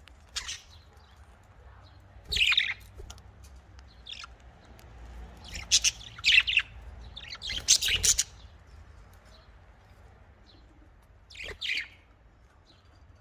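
Pet budgerigars (Australian parrots) chirping and squawking in short, sharp calls: single calls early on, a busy cluster through the middle, then a quick pair near the end.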